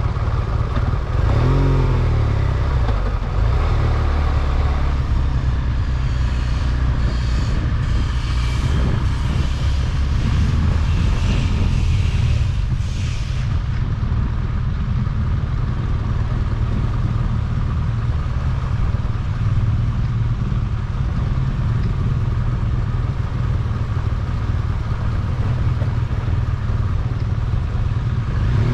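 Car engine and road noise while driving, a steady low rumble, with a brief rise and fall in engine pitch about two seconds in and some light clatter in the middle.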